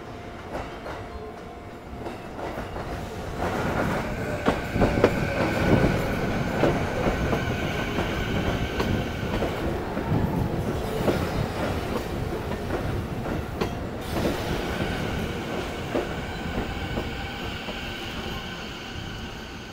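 Railway train running on the rails: wheels clicking over rail joints under a steady high-pitched wheel squeal. The sound swells about three seconds in and eases off near the end.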